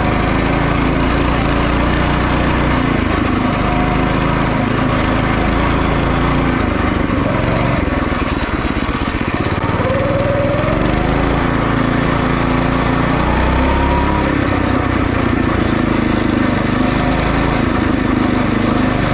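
Small mini-motorcycle engine running steadily, its pitch rising and falling a few times in the middle as it is revved or ridden.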